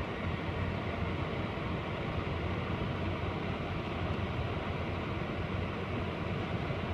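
LaserWash 360 touchless car wash spraying pre-soak onto the car, heard from inside the cabin as a steady hiss of spray over a low machine hum.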